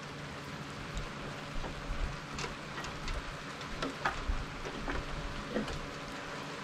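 Water spraying steadily from the shower head of a portable propane water heater, a hiss and patter of spray with a few sharper splashes or taps.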